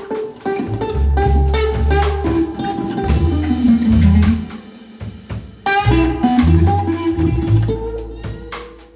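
Live blues trio playing: guitar over bass and drum kit, with a falling guitar run about four seconds in and a short lull before the band picks up again.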